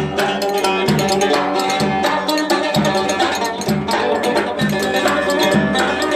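Instrumental Turkish folk dance tune (oyun havası): a busy melody on plucked and melodic instruments over low drum beats about once a second.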